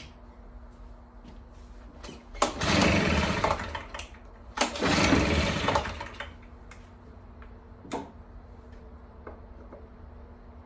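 Stihl BR340 backpack leaf blower's two-stroke engine being pull-started twice, each pull of the recoil starter cranking it briefly without it catching and running. The owner suspects low compression is why it won't start.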